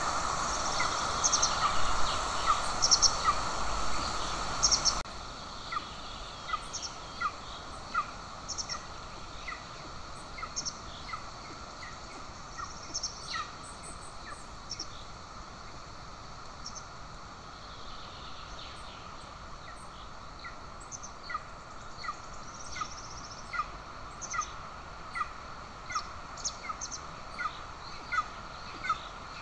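Golden eagle chick calling at the nest: a long series of short, sharp, high chirps repeated about once or twice a second, typical of a begging eaglet. A background hiss drops suddenly about five seconds in.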